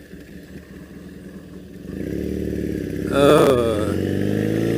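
2001 Triumph Bonneville's air-cooled parallel-twin engine, heard from the rider's seat: running low and quiet at first, then getting louder and rising in pitch as the bike accelerates about two seconds in, with a brief louder burst about a second later.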